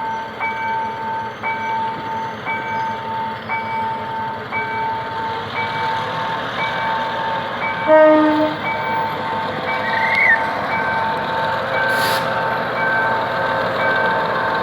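Level-crossing warning bell sounding steadily about once a second while a GM G-22W diesel-electric locomotive pulls away with a passenger train, its running noise building from about six seconds in. The locomotive gives one short horn blast about eight seconds in.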